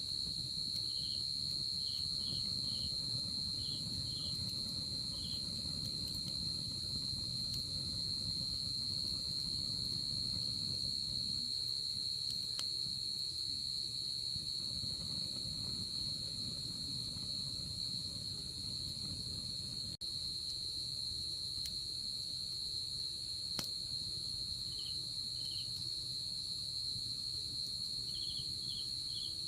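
Night insects calling: a continuous high, steady trill, with short chirps from another insect in little clusters about a second in and again near the end, over a low even hiss and a few faint single clicks.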